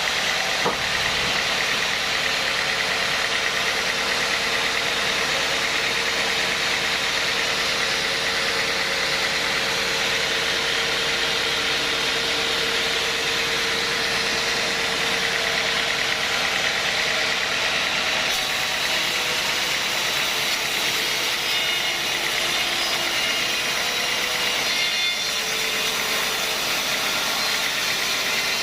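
Sawmill sawing machinery running steadily, a dense mechanical whine and rattle, with a single brief knock about a second in.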